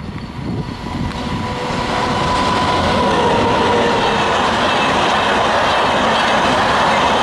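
Express train hauled by a WAP-7 electric locomotive passing through a station at speed, growing louder over the first two seconds to a steady rush of wheels on rail with rapid clickety-clack. A faint tone drops slightly in pitch early on as it passes.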